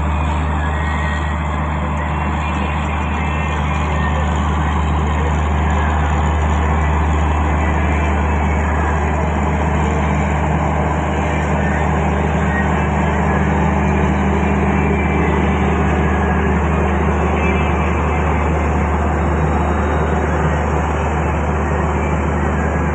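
Garib Rath train moving, a loud steady rumble with a constant low hum.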